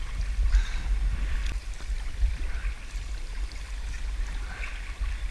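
Water splashing and lapping around a sea kayak as it is paddled, with a steady low rumble underneath.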